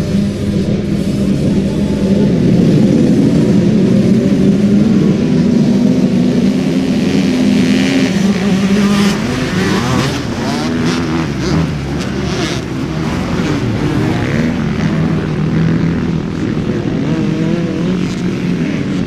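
Motorcycle engine running under way, holding a steady note at first. From about halfway through, the engine speed rises and falls repeatedly, with noisy gusts over it.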